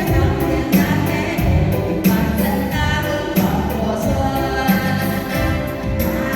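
Women's vocal group singing a Vietnamese song over a backing track with a steady beat and bass.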